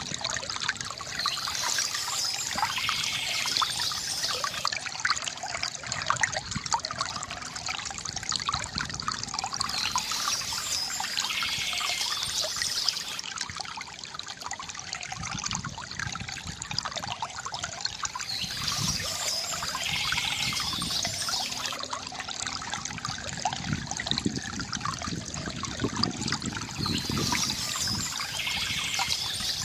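Water from a bamboo fountain trickling and gurgling steadily, with a brighter splashing patch returning about every eight to nine seconds.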